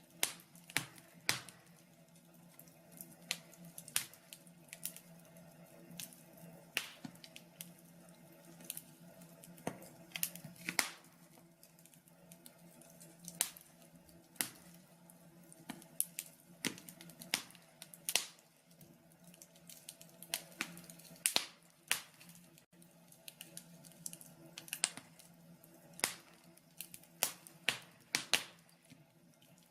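Logs burning in a wood-burning stove, crackling with irregular sharp pops and snaps, some louder than others, over a faint steady hum.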